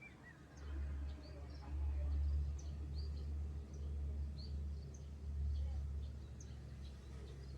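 Strong wind buffeting the microphone in gusts, a low rumble that swells and eases, with small birds chirping now and then.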